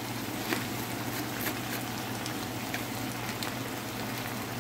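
Chicken pieces and onions sizzling in a hot frying pan with soy sauce and vinegar: a steady hiss with scattered crackles and pops.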